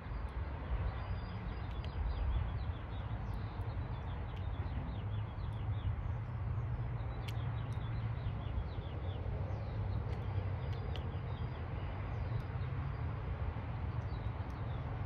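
Small birds chirping repeatedly in short, quick, falling notes over a steady low rumble, with a few faint clicks scattered through.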